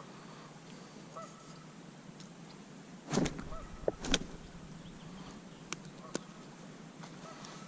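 Geese honking faintly, a few short calls spread through, with a couple of brief thumps about three and four seconds in.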